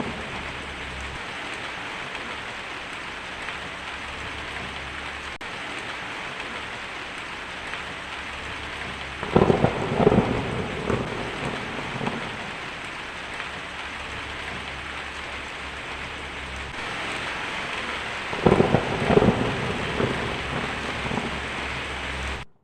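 Steady heavy rain with two rolls of thunder, the first about nine seconds in and the second near the end. The sound then cuts off suddenly.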